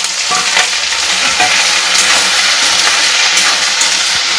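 Sliced potatoes sizzling steadily in hot mustard oil in a kadhai with onions and garlic, being stirred with a spatula, which adds a few light clicks.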